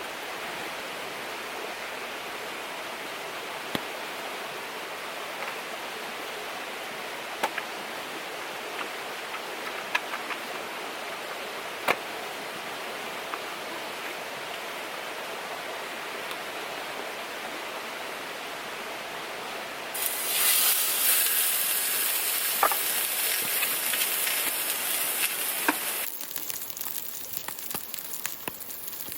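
Steady rush of river water with a few sharp clicks scattered through it. About twenty seconds in, a louder, hissier sound takes over for about six seconds, then drops away.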